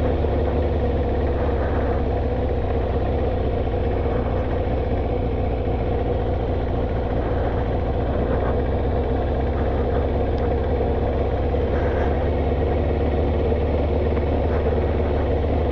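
Kawasaki motorcycle engine running steadily at an even pitch while the bike rolls slowly along, heard from the rider's seat, with a deep, constant rumble.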